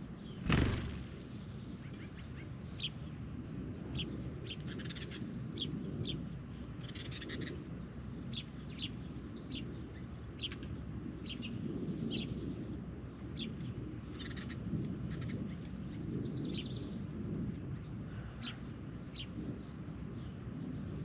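Birds chirping, with short sharp calls repeated every second or so and a longer buzzy trill twice. A loud thump comes about half a second in, over a steady low rumble.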